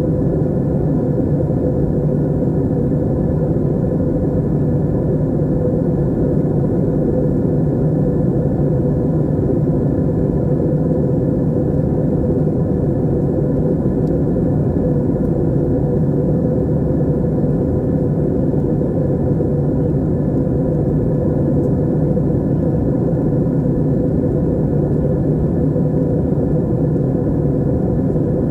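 Aircraft cabin noise in flight: a steady, unchanging low drone of engines and airflow, with a faint steady hum in it.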